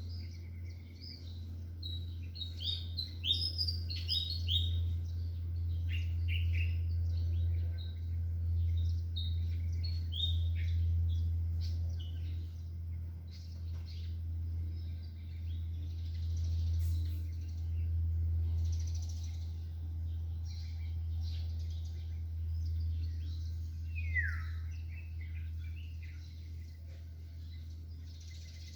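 Several small birds chirping and calling, with quick clusters of high notes over the first few seconds and one falling call a little before the end. A steady low hum runs underneath.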